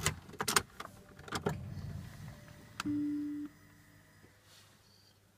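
Sharp clicks and knocks from the Maserati GranSport as it is readied for a cold start, then a brief steady electric hum about three seconds in that fades away. The engine is not yet running.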